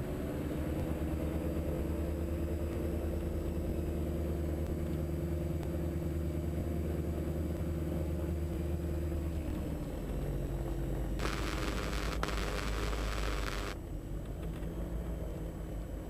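Twin Austro AE300 turbodiesel engines of a Diamond DA42 NG running at low taxi power, a steady drone of several even tones whose note shifts about ten seconds in. A hiss comes in for a couple of seconds about eleven seconds in.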